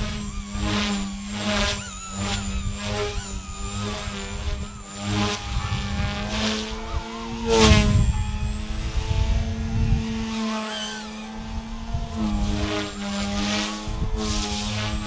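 XK K130 micro RC helicopter flying at high head speed: its brushless motor whines and its rotor buzzes, rising and falling in pitch as throttle and collective change. There is a louder surge about eight seconds in.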